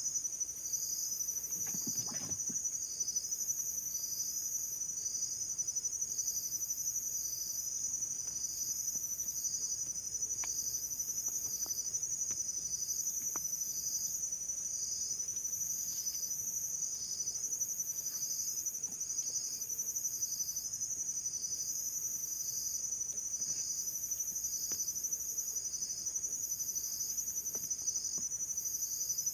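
Insects chirping in a steady high-pitched chorus, pulsing about one and a half times a second.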